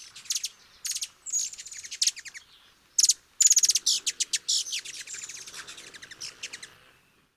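Hummingbird calling: a rapid run of high, thin chirps and twittering trills, some sweeping downward in pitch, fading out about seven seconds in.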